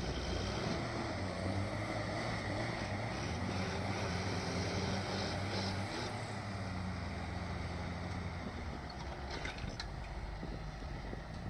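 Farm tractor diesel engine running steadily with a low hum, with wind noise on the microphone.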